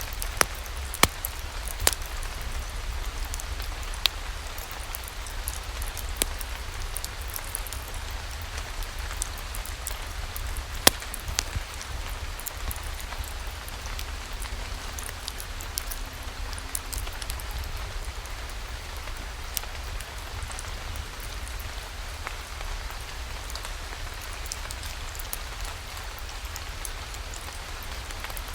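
Steady rain, with scattered sharp clicks, the loudest about eleven seconds in.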